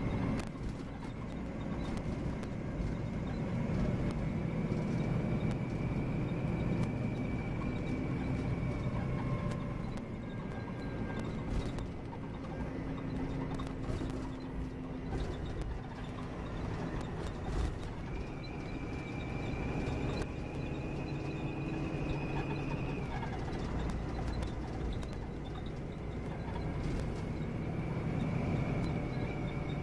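Inside a Volvo B9R coach on the move: a steady rumble of the straight-six diesel engine and the road, with a high whine that steps up in pitch partway through and drops back a few seconds later. Intermittent squeaks and clicks from the coach come through over the rumble.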